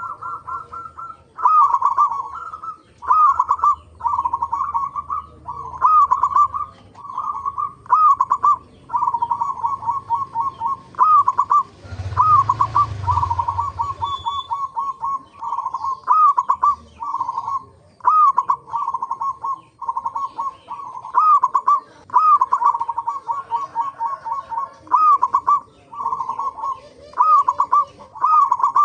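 Local zebra doves (perkutut) cooing over and over, several birds overlapping, each phrase a rising note followed by a quick run of short staccato coos.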